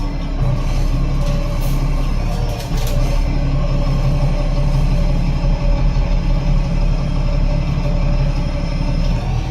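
Enviro500 MMC double-decker bus with a Cummins ISL8.9 diesel and Voith DIWA gearbox, under way: a steady engine drone with a low rumble. A few sharp clicks or rattles come between about one and a half and three seconds in.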